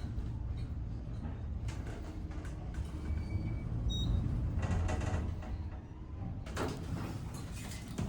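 Passenger elevator running with a steady low hum, with its sliding doors moving near the end.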